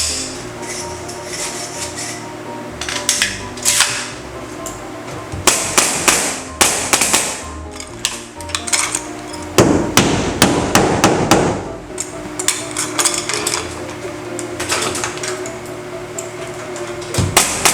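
Sharp, irregular impacts of wooden ceiling framing being nailed together, some of them in quick runs, with a dense rattling stretch of a second or two about ten seconds in. Background music plays underneath.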